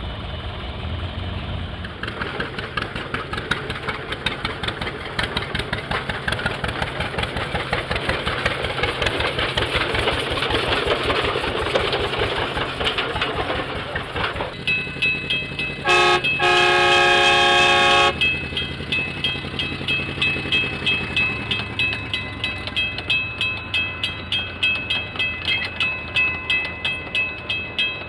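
Steam engine chuffing in a steady rhythm, with a steam whistle blown for about two seconds past the middle, briefly broken just after it sounds. After the whistle the chuffs run evenly at about two a second.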